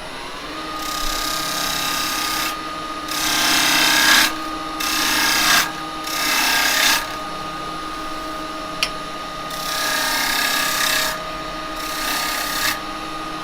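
Axminster 1628 wood lathe running up to speed, then holding a steady hum while a turning tool cuts the rim of a wet cherry bowl in six short scraping passes of one to two seconds each.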